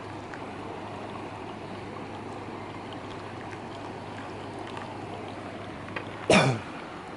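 Riverside stream flowing steadily. About six seconds in comes a single brief, loud knock with a sharply falling pitch.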